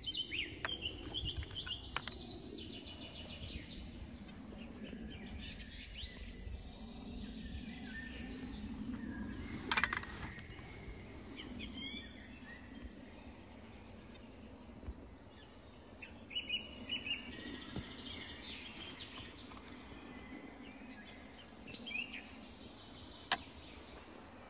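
Small woodland birds chirping in several short bouts, with a low background rustle and a couple of sharp clicks.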